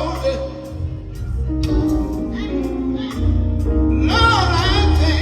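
Live gospel quartet music: the band plays sustained chords over a deep bass with drum hits, and a singer's voice comes in strongly about four seconds in.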